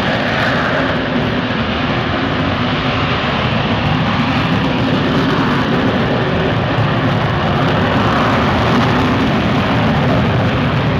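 F-35B Lightning II's single jet engine, loud and steady with a deep hum under a broad roar of noise, swelling slightly a little past halfway.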